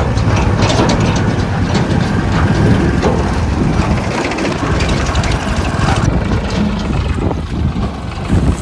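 Tractor diesel engine running steadily, with a rapid rattle over its low pulsing.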